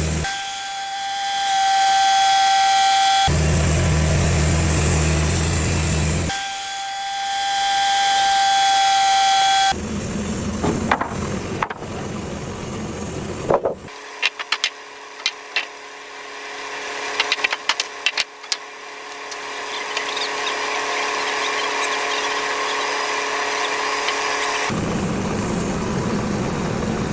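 Cook's AC36 bandsaw mill sawing red cedar, in short clips spliced together. Parts of it carry a steady high whine over noise; in one longer stretch there are scattered sharp knocks and clatter over a lower, steady hum.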